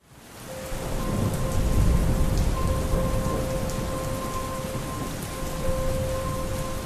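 Steady rain ambience fading in over the first second, with a deep rumble of thunder underneath. Faint held notes of slowed, reverberant music sit quietly beneath the rain.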